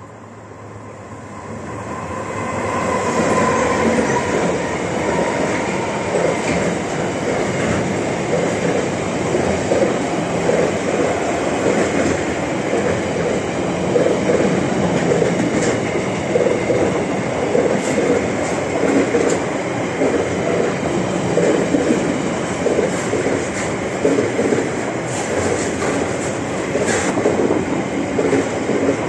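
Diesel-hauled container freight train passing close by. The locomotive's approach swells over the first few seconds, then a long string of container wagons rumbles and clatters over the rail joints in a steady rhythm, with occasional sharp clanks.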